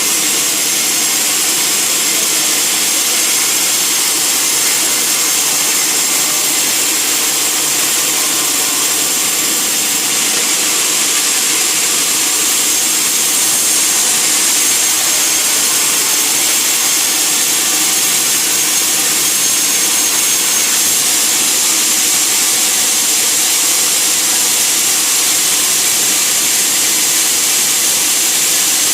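Sawmill saw cutting through a log: a steady, loud, hissing cut with no breaks.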